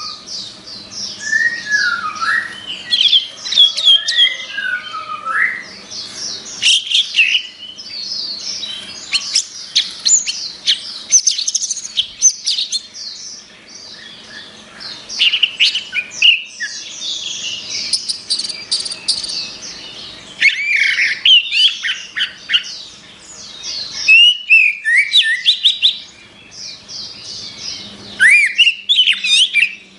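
Orange-headed thrush singing a long, varied song of rapid chirps and whistled glides, delivered in loud bursts of phrases with brief pauses.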